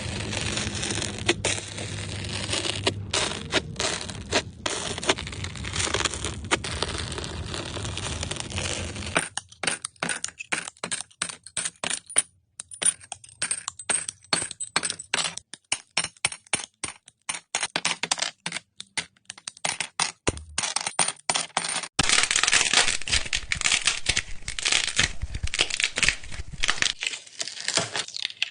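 Crunching and crackling: dense crackle at first, then a long run of separate sharp clicks and cracks from about nine seconds in, turning dense again about three-quarters of the way through.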